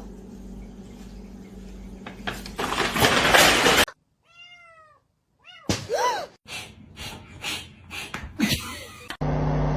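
A cat meowing: a short meow about four seconds in and a clearer one about six seconds in, among scattered knocks and rustling.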